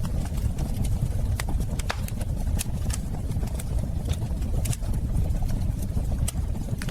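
Wood fire burning in a fireplace: sharp crackles and pops at irregular intervals over a steady low rumble.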